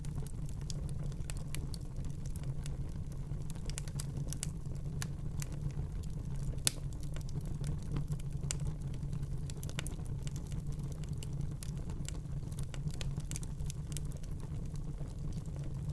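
Wood fire burning in a fireplace: a steady low rumble of the flames with irregular crackles and small pops, one louder pop about six and a half seconds in.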